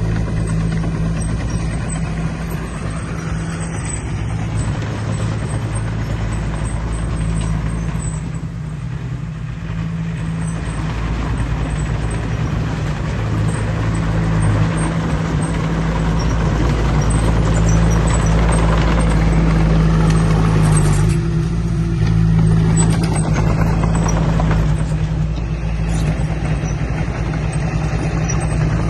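Heavy diesel engine of earthmoving machinery running steadily under work, a deep low drone that grows somewhat louder in the second half.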